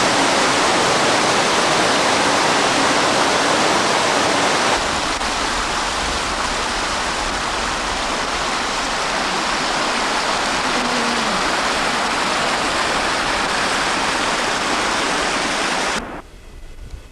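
Mountain stream rushing steadily. About five seconds in the sound turns duller and a low rumble joins it; it cuts off suddenly near the end.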